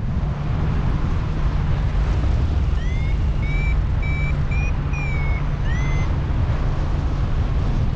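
Strong wind rushing over the microphone during a paraglider flight. From about three seconds in, a string of short, high beeps sounds over the wind, some of them sliding up in pitch.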